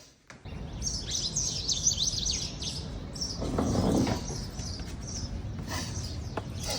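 Small birds chirping and twittering, dense for the first couple of seconds and then scattered, over steady outdoor background noise. A brief rush of noise swells about halfway through.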